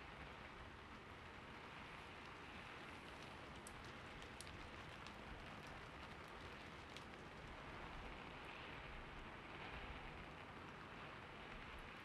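Soft, steady rain, with a scattering of faint drop ticks in the middle and near the end.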